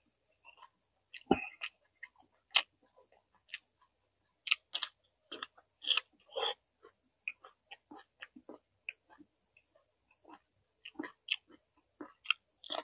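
Close-miked chewing of roasted vegetables: irregular short mouth clicks and smacks with brief pauses between them, one deeper and louder about a second in.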